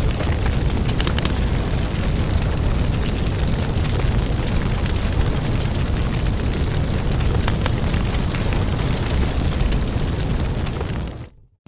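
Wood fire in a fireplace burning with a steady low rumble and frequent sharp crackles and pops. Near the end the sound fades out quickly to brief silence, then starts again.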